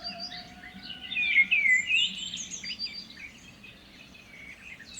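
Several small birds chirping and singing in quick sliding notes, busiest and loudest about one to two seconds in.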